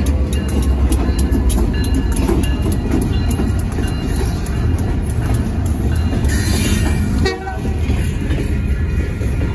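EMD GP38-2 diesel locomotive passing close by, its engine rumbling, followed by gondola cars rolling past with wheels clacking over the rail joints. The low engine rumble is strongest at the start and eases as the cars take over.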